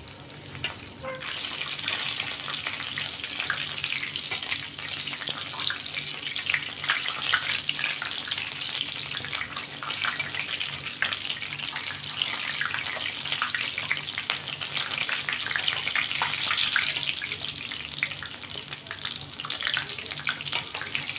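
Breaded stuffed chicken roll shallow-frying in hot oil, sizzling and crackling steadily. The sizzle starts about a second in.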